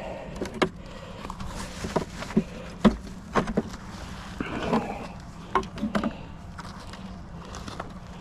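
Irregular wooden knocks, clicks and short scrapes as beehive frames and boxes are handled during an inspection, with a steady low hum underneath.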